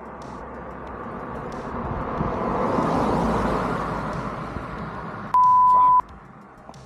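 A vehicle passes, its road noise swelling and then fading over a few seconds. Near the end, a loud, steady, high beep lasts about half a second and cuts off sharply.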